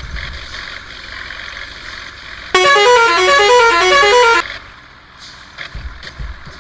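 A musical vehicle horn plays a quick tune of stepping notes for about two seconds, starting about two and a half seconds in, over low vehicle noise.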